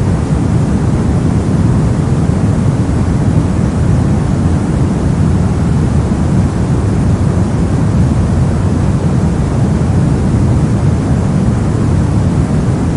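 Steady soft noise: an unchanging deep hiss, weighted toward the low end so it sounds more like a dull rumble than a bright hiss, with no rhythm or events.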